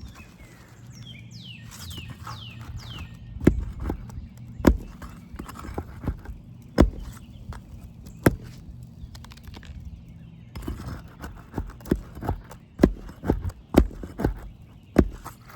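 Hammer striking a roof snake to drive it against the nails under asphalt shingles. First come a few spaced knocks, then a quicker run of strikes near the end.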